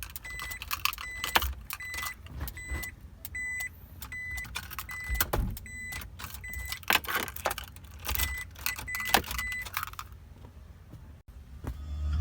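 A car's electronic warning chime beeping steadily about twice a second, over keys jangling and sharp clicks; the beeping stops about ten seconds in.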